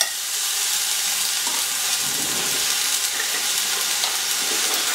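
Millet grains frying in hot oil in a cast-iron skillet: a steady sizzling hiss.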